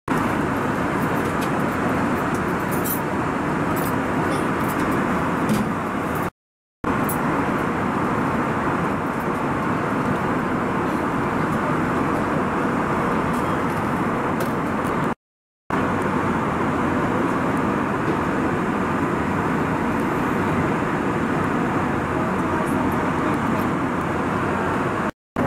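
Steady airliner cabin noise inside an Airbus A321 in flight: a constant rush of engines and airflow. It is broken by three brief gaps of silence.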